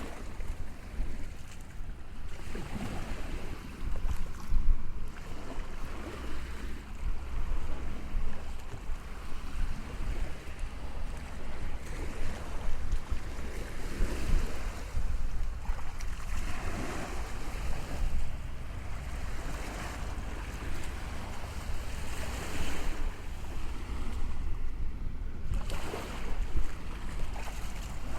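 Sea waves washing in and breaking in repeated surges every few seconds over a steady low rumble, with wind buffeting the microphone.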